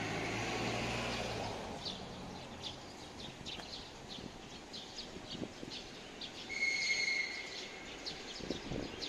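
Small birds chirping in short, repeated high calls among trees, while a passing motor vehicle's engine fades out in the first second and a half. A brief, steady high whistle-like tone sounds about seven seconds in.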